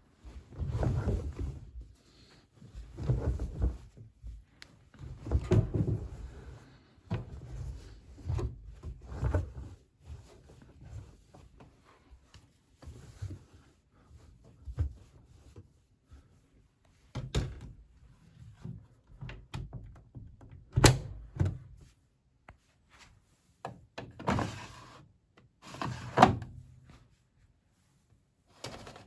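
Constructa Energy 1000s washing machine giving a run of irregular heavy thuds and clunks, some with a sharp click, about every one to two seconds at first and sparser later.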